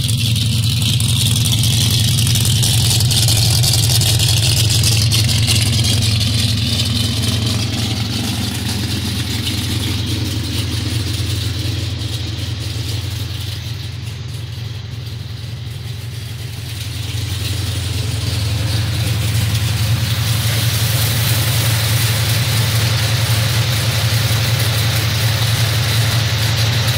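1968 Pontiac GTO's Pontiac V8, fitted with a new, aggressive ('nasty') camshaft, idling steadily through its exhaust. It is quieter for a few seconds midway, when heard from inside the cabin, and louder again at the open engine bay.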